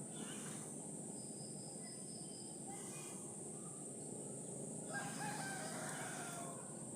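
A single pitched bird call of about a second and a half comes about five seconds in, over a steady high hiss and a few fainter short bird notes.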